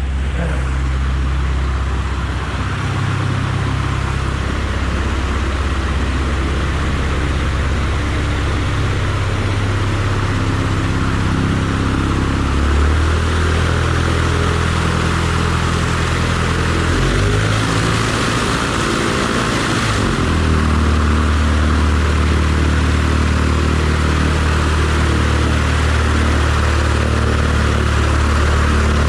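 Light airplane's piston engine running close by as it comes in, its engine note shifting several times with throttle changes, over a hiss of wind or propeller noise.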